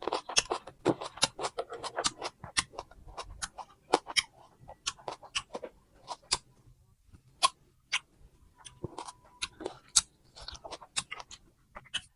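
Crunchy fruit being bitten and chewed close to the microphone: a quick, irregular run of sharp crunching clicks.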